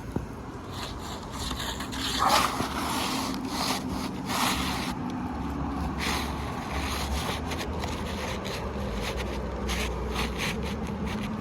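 Asphalt roof shingles scraping and rubbing as they are worked by hand, in a series of short irregular scrapes.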